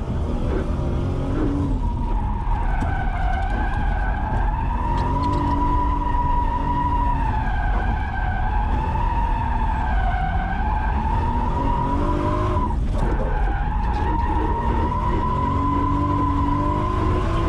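Drift car's engine running hard while its tyres squeal through sustained drifts, the squeal wavering up and down in pitch, with a short break about thirteen seconds in.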